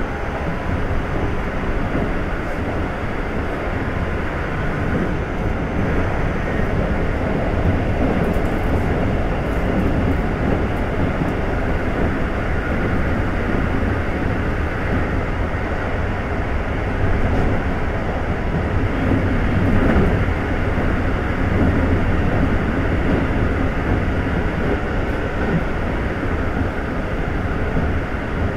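Keikyu N1000 series electric train running steadily along the line, heard from inside the car: a continuous rumble of wheels on rail with running noise that swells slightly midway.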